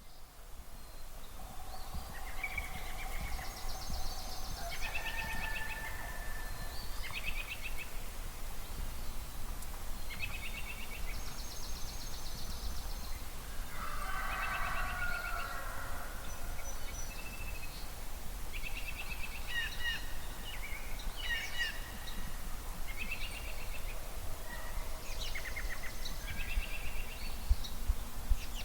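Dawn chorus of several songbirds singing repeated trills and whistled phrases, with a rooster crowing about halfway through. A ruffed grouse drums as a low thumping in the background.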